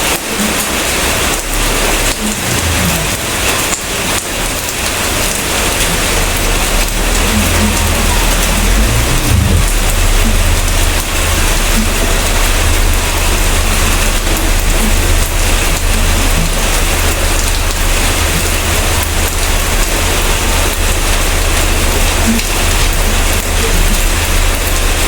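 Heavy rain falling steadily, with a low rumble underneath that swells about eight seconds in and holds.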